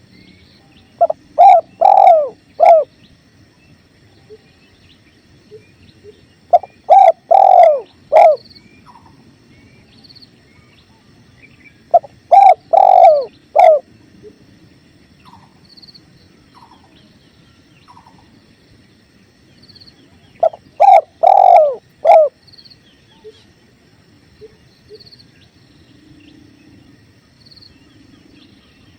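Spotted dove (tekukur) cooing: four phrases of about five low coos each, a few seconds apart. Under them are the faint steady rush of a river and small high chirps.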